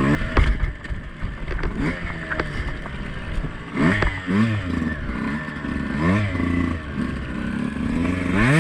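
Two-stroke enduro dirt bike engine being ridden on a trail, revving up and dropping back repeatedly with quick throttle blips, along with scattered knocks.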